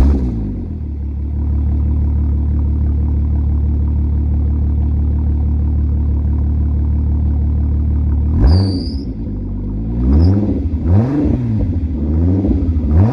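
Turbocharged Volkswagen VR6 engine catching on a cold start and settling into a steady fast idle. From about eight seconds in it is blipped about five times, with a brief high whistle on the first rev.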